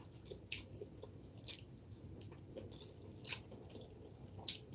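Faint close-miked chewing with a few sharp wet mouth clicks, about four spread over the span.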